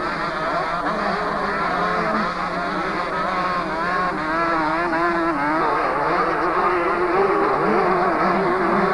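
Several motocross bikes racing at once, their engines revving up and down in overlapping, wavering notes.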